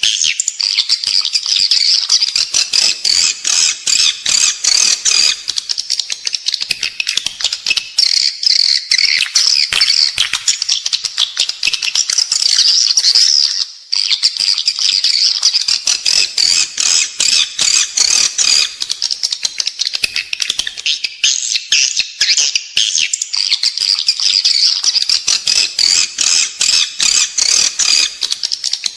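Edible-nest swiftlets calling: a dense, continuous twittering chatter of rapid chirps and clicks, with a brief break about halfway through. It is a lure call of the kind played inside a swiftlet house to draw the birds in to nest.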